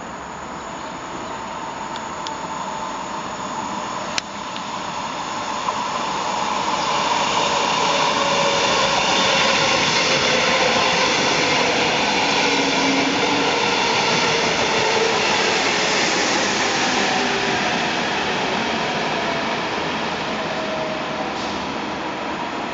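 Double-deck electric push-pull train running past along a station platform: the rumble of its wheels and coaches builds, is loudest as the coaches go by and slowly fades as the train moves away. A brief click about four seconds in.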